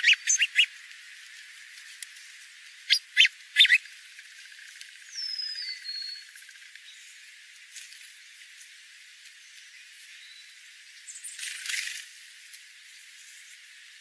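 Small wild birds calling: clusters of sharp chip notes at the start and again about three seconds in, then one short falling whistle about five seconds in, over a steady hiss. A brief noisy burst comes near the end.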